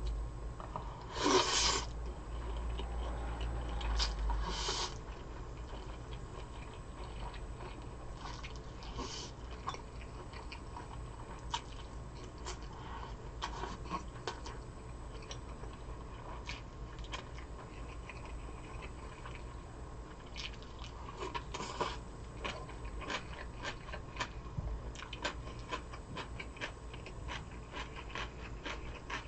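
Close-miked eating sounds: chewing and biting into jokbal (braised pig's trotters), a run of short clicking bites and chews with two louder noisy bursts, about a second in and around four seconds.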